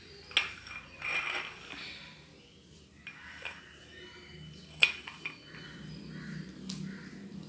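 A few sharp clicks and clinks of hard objects knocking together. There is a short scraping rustle about a second in.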